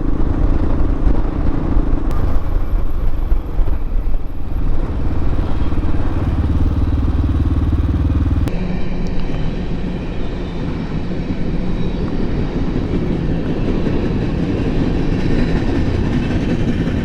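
Hawk 250 dual-sport motorcycle's small single-cylinder engine running steadily, with a rumble of noise on the microphone. The sound changes abruptly about eight and a half seconds in.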